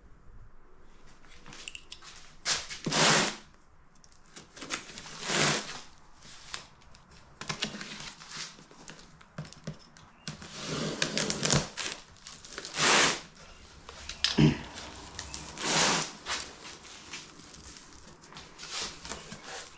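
Packaging being opened and handled: repeated bursts of rustling and crinkling, each up to about a second long, with small knocks and clicks between them.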